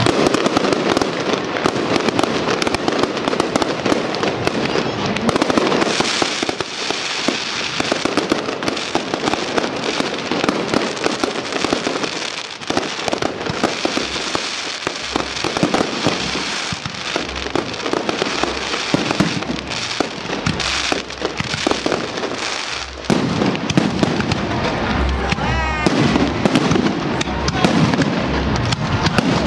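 Fireworks display: aerial shells bursting in quick succession over continuous crackling from the falling stars. The bangs grow heavier and deeper in the last six seconds.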